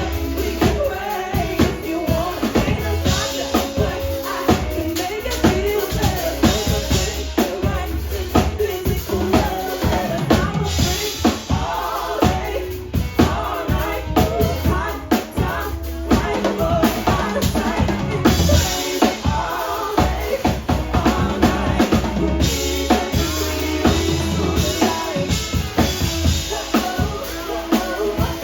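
Live band playing a song, drum kit driving a steady beat with bass drum, snare and rimshots over bass and other instruments.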